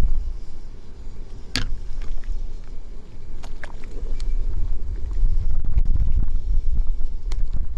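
Low wind rumble on the microphone, with a few short sharp clicks or cracks, the loudest about a second and a half in.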